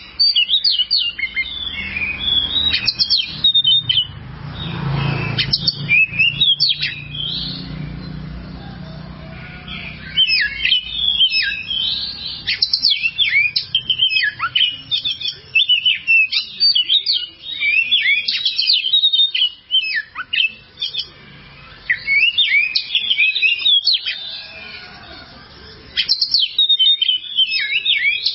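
Oriental magpie-robin (kacer) singing a long, varied song of rapid chirps, trills and whistled notes in bursts separated by short pauses. A low rumble is heard briefly about five seconds in.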